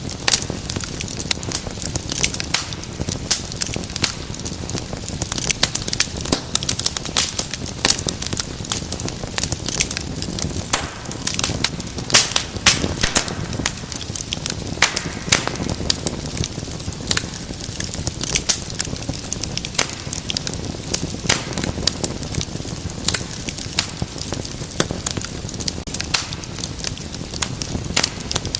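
Wood fire in a fireplace crackling and popping, with dense irregular snaps over a steady low rumble of flame.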